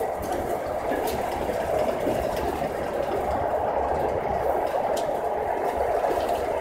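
Steady running noise of an electric train heard from inside the passenger car at speed: an even rush of wheels on rail with a low rumble and a couple of faint clicks.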